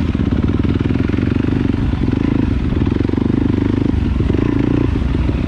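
Trail dirt bike's engine running steadily while riding, with slight dips in throttle a few times.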